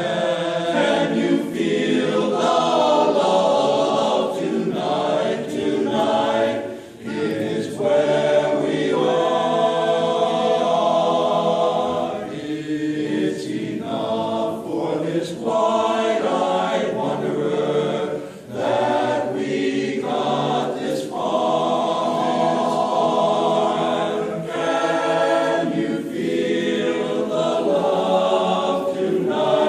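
A choir of many voices singing a song together, in phrases that break every second or two.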